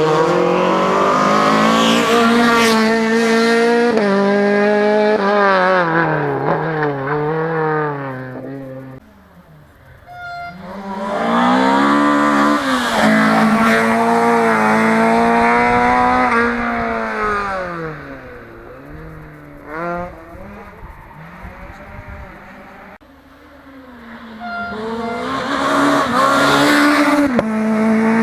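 Rally cars driven hard past the listener, one loud pass after another with quieter gaps between. Their engines rev high and drop in pitch at each gear change.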